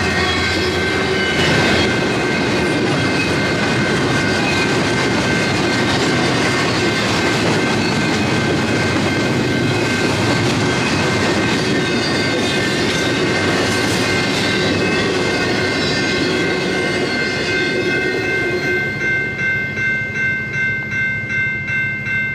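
Freight train rolling past, a steady rumble and rattle of railcars on the rails. Near the end the sound pulses about twice a second, with a steady high ringing over it.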